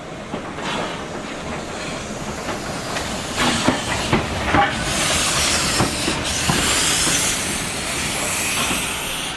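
Steam-hauled passenger train running, heard from a carriage: wheels clicking over the rails, with a hiss that swells through the middle and then eases.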